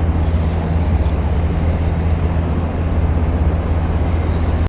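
A steady, unchanging low engine hum with no speech over it.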